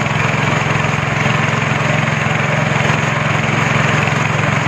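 Speedboat engine running steadily under way, a constant loud hum over an even rushing noise.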